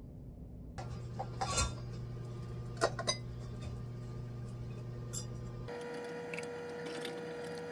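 Mugs and dishes clinking and knocking on a stone galley counter, a handful of separate clinks, over a steady low appliance hum that changes to a higher steady tone about six seconds in.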